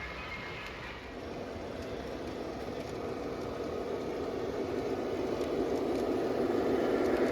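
Electric toy train running on its track, its rumble and wheel noise growing steadily louder as it approaches.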